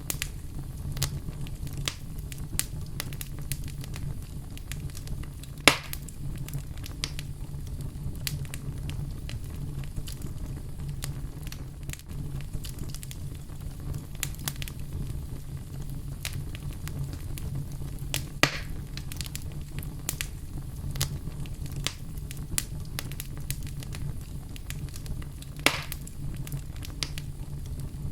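Fireplace fire crackling over a steady low rumble, with frequent small crackles and three louder pops: about six seconds in, past the middle, and near the end.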